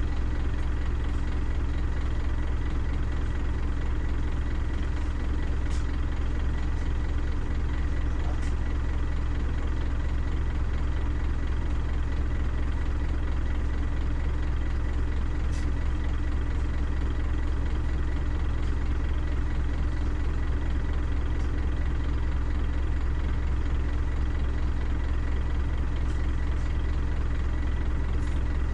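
Scania CN270UB city bus's engine running with a steady low drone, heard from on board the bus.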